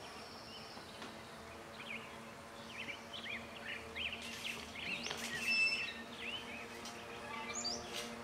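Wild birds chirping outdoors in quick, varied short notes over a faint, steady low hum.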